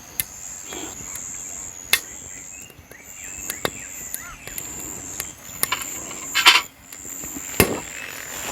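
Newly lit campfire of wet split firewood crackling, with about six sharp pops. Behind it, insects chirp high-pitched in short repeated bursts.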